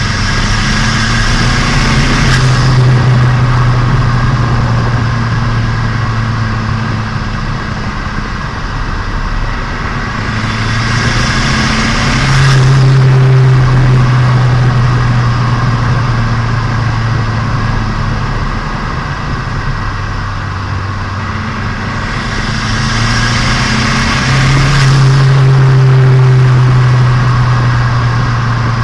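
Turbocharged Nissan Micra engine, freshly rebuilt and being run in, pulling through the gears: three times the revs climb, with a hiss building over the top, and each time they drop suddenly as a gear change comes and the hiss cuts off.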